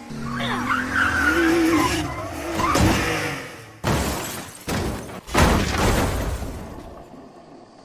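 Film sound effects of a vehicle chase: an engine revving and tyres screeching, then two sudden crashes about four and five and a half seconds in, dying away near the end.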